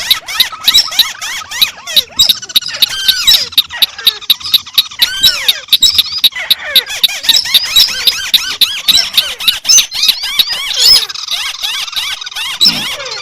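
Overlapping calls of several crakes, white-browed crake among them: a dense, unsynchronised stream of rapid, squeaky chirps and sharp notes, several a second.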